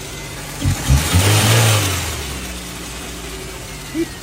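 Car engine revved once, surging about a second in and then settling back to a steady idle, with a faint whine that slowly drops in pitch.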